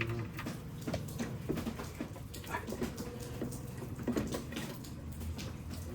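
Scattered light metallic clicks and taps of a bolt and hand tools being handled while fitting a jacking rail to the car's underside, a few knocks spread through a low steady background.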